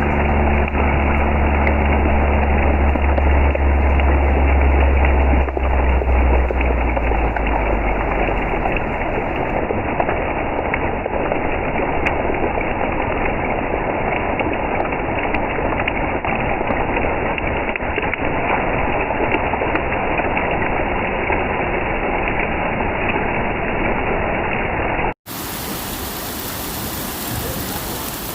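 Heavy rain falling steadily in an even downpour. A low rumble underneath fades out after several seconds. About 25 s in, the sound cuts out for a moment, and the rain then resumes with a brighter sound.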